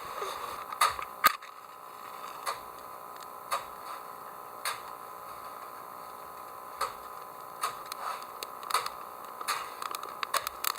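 Irregular sharp clicks and taps over a steady hiss, the loudest two about a second in.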